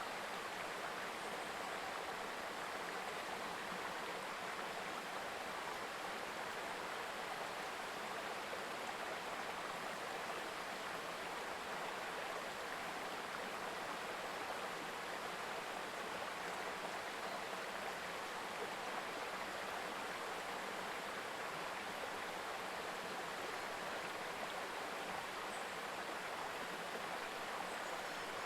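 Shallow mountain stream babbling steadily over stones.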